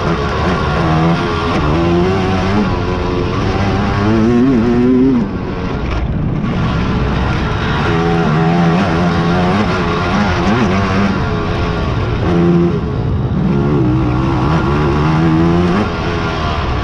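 Big-bore quad (ATV) engines racing, revving up and easing off over and over as the riders work the throttle. The loudness drops briefly a little past five seconds in.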